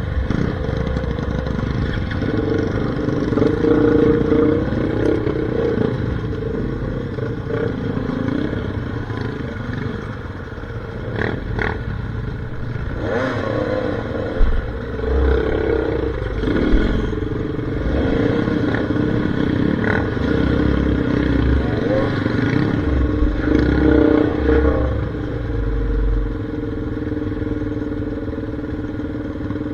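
Enduro dirt-bike engine running at varying revs, rising and falling, then holding steady near the end. A few sharp knocks and clatter come in the middle.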